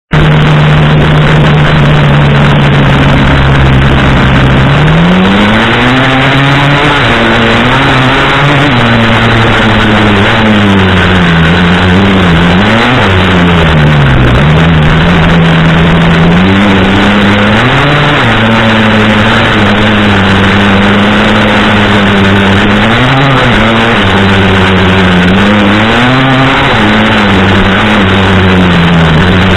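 2001 KTM 250 two-stroke single-cylinder dirt bike engine, holding one steady note for about five seconds, then revving up and down over and over as the throttle is worked on the ride. Very loud and poorly recorded, with a dull, clipped sound.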